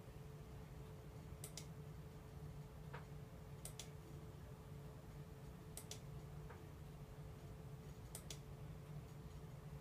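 Faint, sharp double clicks repeating about every two seconds over a low steady hum.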